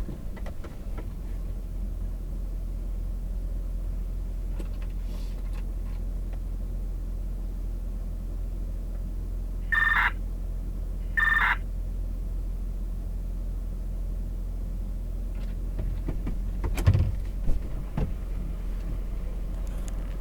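Brush truck's engine running, heard from inside the cab as a steady low hum. Two short electronic beeps sound about a second and a half apart near the middle, and a couple of knocks follow a few seconds later.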